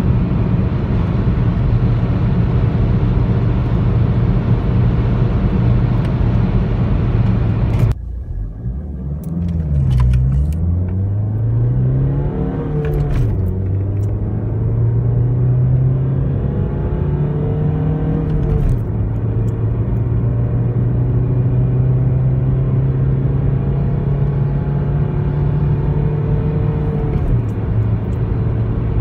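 Opel Astra G's 1.7 DTI turbo-diesel engine under hard acceleration, heard from inside the cabin: at first a dense roar of engine, wind and road at high speed. Then, after an abrupt change, the engine note climbs through the gears, dropping in pitch at each of several upshifts.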